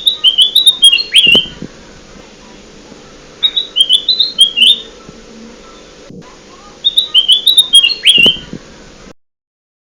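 Kutilang emas (a bulbul) song played as a lure call: the same short phrase of quick, bright whistled notes, ending in a lower slurred note, repeats three times a couple of seconds apart. The sound cuts out abruptly near the end.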